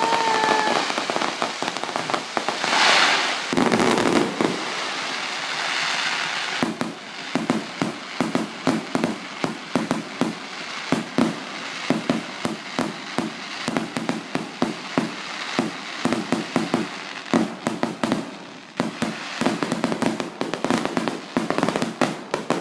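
Fireworks display: a whistling firework trailing off in the first second, a hissing burst around three seconds in, then from about seven seconds a dense, rapid string of bangs and crackles.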